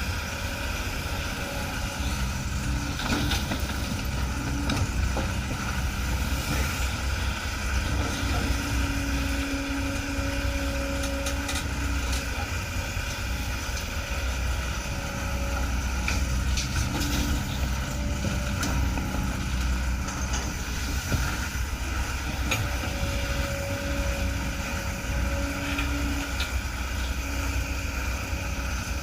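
Excavator's diesel engine running steadily under working load, with brief whines coming and going and scattered knocks.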